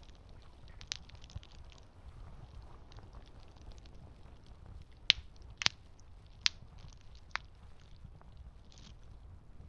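Campfire crackling: a low steady rumble of burning wood with many small ticks and a few sharp pops, four of them close together in the second half.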